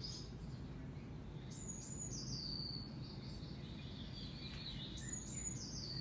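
A songbird singing two short phrases about three and a half seconds apart, each a high run of notes sliding downward, over a steady low background hum.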